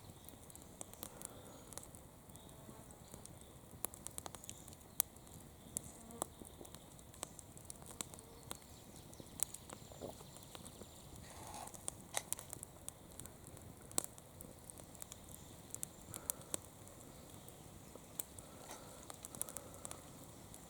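Wood campfire burning, with irregular sharp crackles and pops over a steady low hiss.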